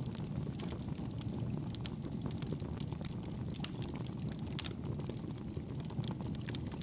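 Wood fire crackling in a fireplace: a steady low rush of flames with frequent, irregular sharp pops and crackles.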